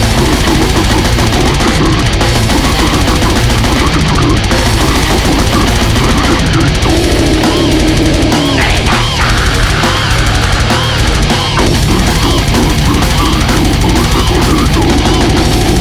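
Extreme metal music played loud and without a break: distorted electric guitars over dense, fast drumming, with a few short squealing pitch sweeps about halfway through.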